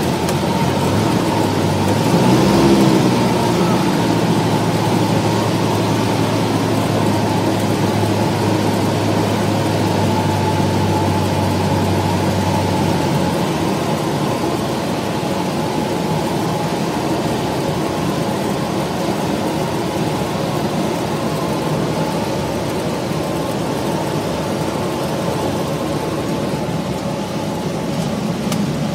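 Cessna 172 light aircraft's piston engine and propeller droning steadily in flight. A low hum in the drone drops out about halfway through.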